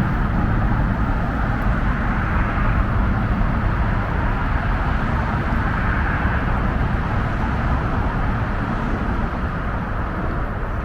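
Steady road traffic noise: a continuous rumble with no distinct events.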